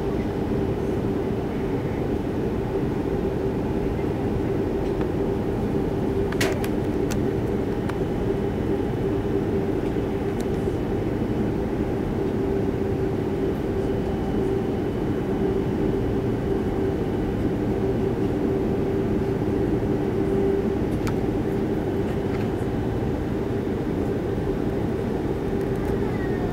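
Steady cabin drone of an Airbus A330-300 on the ground before takeoff, the engines at low thrust with the cabin air system, a constant hum with a held tone. There are a few faint clicks, the clearest about six seconds in.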